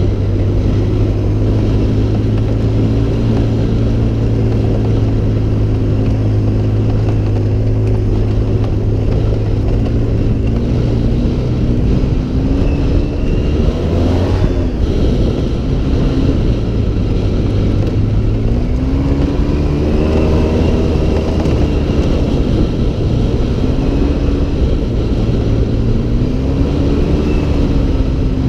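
Engine of an off-road vehicle under way, its pitch rising and falling with the throttle, with climbs about halfway through and again about two-thirds of the way in.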